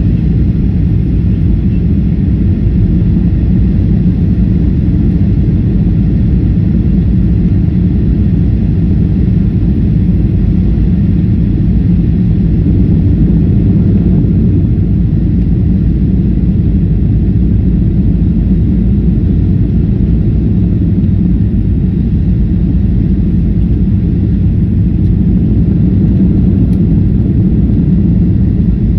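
Steady, loud low rumble of a Boeing 737 jet airliner landing, with no break or sharp change.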